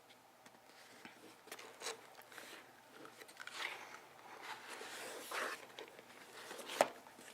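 Candy being bitten and crunched: irregular crackly crunches with a sharp, loud click near the end.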